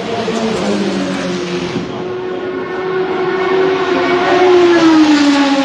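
V12 race car engine running at fairly high revs with a steady note, then dropping in pitch about five seconds in.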